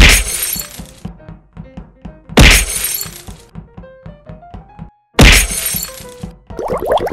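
Three loud crashing, shattering sound effects, about two and a half seconds apart, each dying away over a second: cartoon walls of stacked blocks being smashed through. Light plucked background music runs underneath, and a fast repeating rattle starts near the end.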